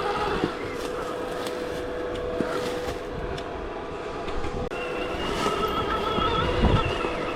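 Stark Varg EX electric dirt bike motor whining as it rides off-road. A higher whine comes in about five seconds in, over a steady rough noise of wheels, chassis and wind.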